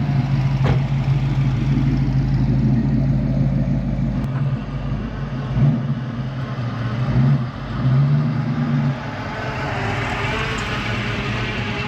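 A car engine running with a low, steady rumble, rising in short swells a few times through the middle, as if the throttle were blipped. Near the end a broader, higher rushing noise builds up.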